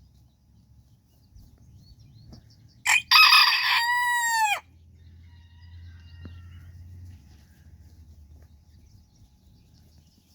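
A bantam rooster crows once, about three seconds in: a short first note, then a longer one that falls away at the end.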